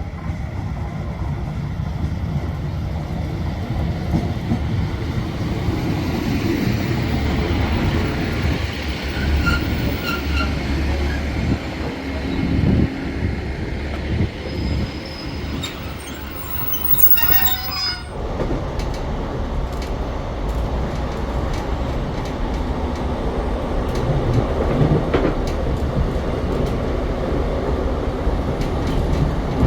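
Passenger train running on the rails with a steady low rumble, and a brief high wheel squeal about seventeen seconds in.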